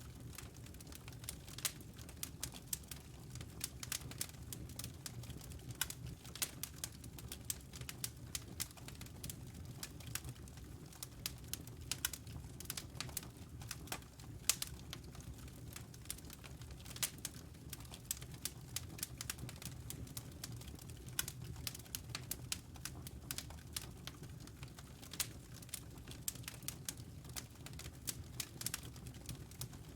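Wood fire crackling, with frequent irregular sharp pops and snaps from the burning logs over a steady low rumble of the flames.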